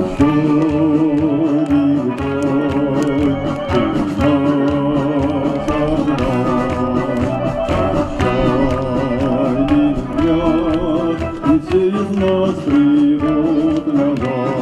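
A song with accompaniment, sung in long held notes with a wavering vibrato.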